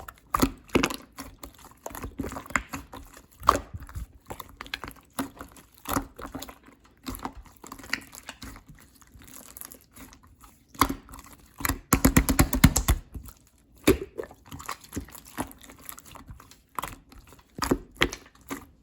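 Clear slime being squished and pressed by hand, making irregular sticky clicks and squelches. About twelve seconds in there is a second-long run of rapid small pops.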